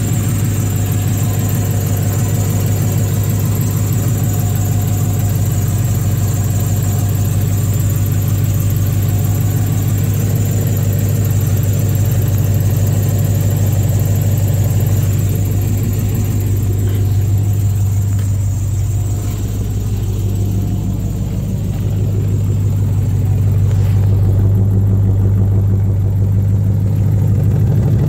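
A 5.7 L Vortec V8 in a 1999 Oldsmobile Bravada idling steadily through its custom exhaust, with a deep, even hum and small swells in level.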